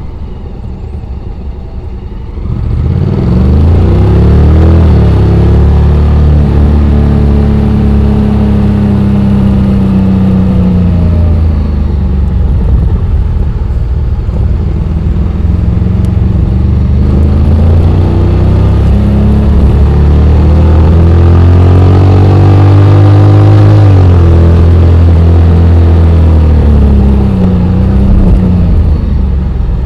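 Honda X-ADV 750's parallel-twin engine under way. It is quiet for the first two seconds or so, then opens up loudly and rises in pitch, holds, and eases off. It picks up again in a second long rising pull, held, and falls away near the end.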